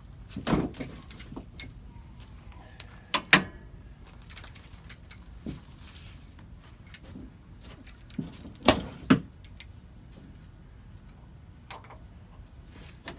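Scattered sharp knocks and clanks of metal tools and equipment while a floor jack lowers the bus onto jack stands, the loudest a double knock about three seconds in and another pair about nine seconds in.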